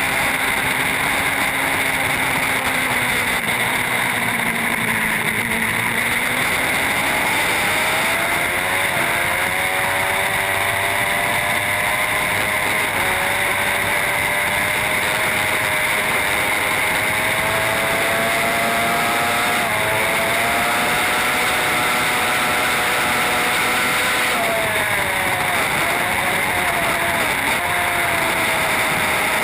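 Racing superbike engine pulling hard, its pitch climbing through the gears with sharp drops at two upshifts midway, then falling as the revs come down a few seconds before the end. A constant rush of wind noise sits over it.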